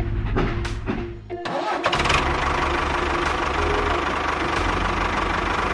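Background music with a percussive beat cuts off about a second and a half in. A small engine then starts with a clatter and runs steadily.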